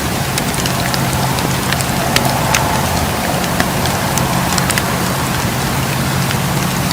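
Campfire burning with a steady hiss and frequent sharp crackles and pops from the burning wood.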